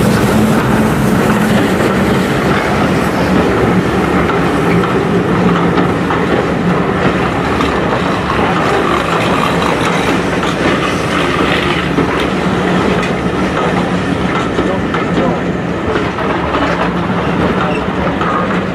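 Passenger coaches of a steam-hauled train rolling past on the track: a loud, steady rumble and clatter of wheels on rail.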